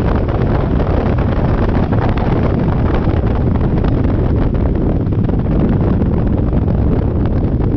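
Loud, steady wind rush buffeting the microphone on a moving scooter.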